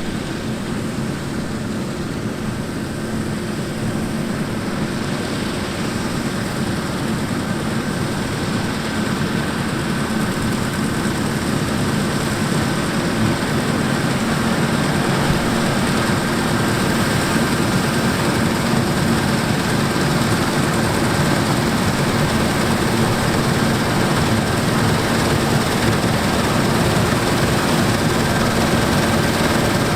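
Heavy diesel harvest machinery running steadily with a constant engine tone, getting gradually louder.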